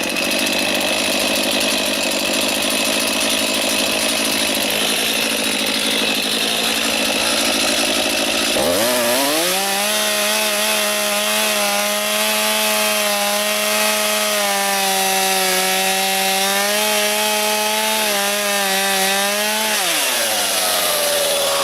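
Stihl two-stroke chainsaw running at full throttle, cutting lumber. About nine seconds in its engine note rises to a clear steady whine, then drops near the end.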